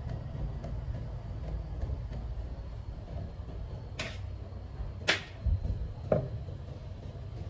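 Three sharp knocks of metal tools and parts being handled, about a second apart, the middle one loudest, over a low steady rumble.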